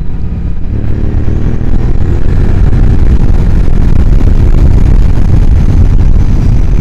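Motorcycle running under way with a loud, steady low rumble of engine and riding noise, rising about a second in as the bike picks up speed.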